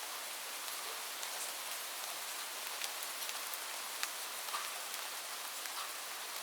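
Steady rain falling on a roof: an even hiss with scattered sharp ticks of single drops striking.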